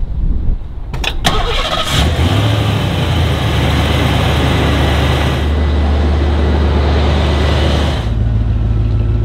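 A couple of sharp clicks about a second in, then the Ford Mustang SSP's 5.0-litre V8 starts and settles into a steady idle.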